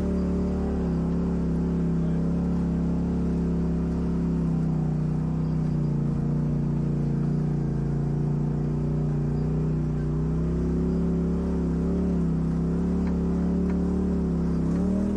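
Off-road vehicle engine running at a steady speed, with a brief rise in revs at the start and again near the end.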